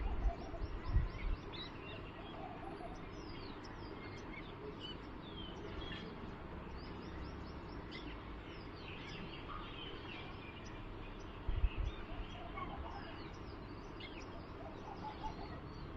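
Small birds chirping and calling, with many short high chirps overlapping throughout over steady background noise. Two brief low thumps come about a second in and again near twelve seconds.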